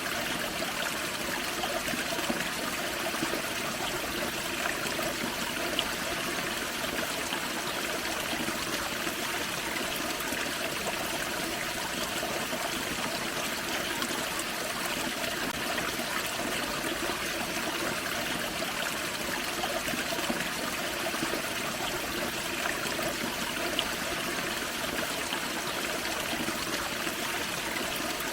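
Small forest waterfall and creek water splashing and trickling over rocks, a steady, unbroken rush with small flickers of droplets.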